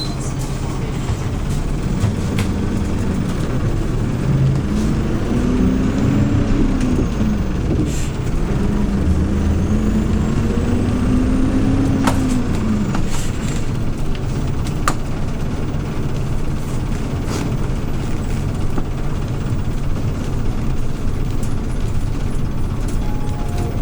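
2013 Hyundai New Super Aero City CNG city bus heard from on board, its CNG engine running under way with a steady low rumble. The engine pitch rises and falls twice as the bus accelerates and eases off, with a few light rattles and clicks from the cabin.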